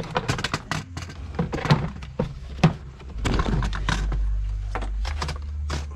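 Hard plastic knocks, clicks and clunks as the VW Jetta's HVAC heater box is worked loose and pulled out from under the dashboard, with a low rumble for a couple of seconds midway.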